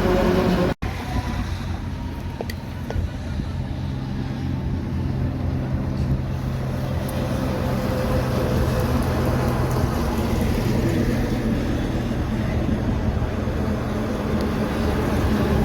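Road traffic: a truck's engine drone with tyre and road noise, holding a steady low tone until about ten seconds in, then a rougher rumble. A brief dropout comes just under a second in.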